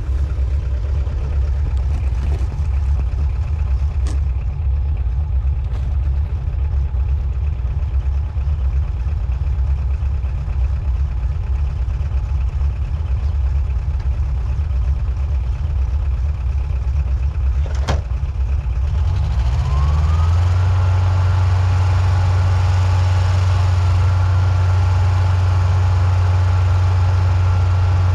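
An engine running steadily at a low speed. About 19 s in it is throttled up and held at a higher, steady speed, just after a short sharp click.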